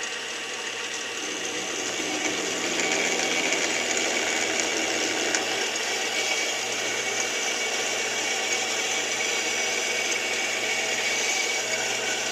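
Small metal lathe running steadily while a letter J drill bit is fed into the workpiece to drill a through hole about a quarter inch deep.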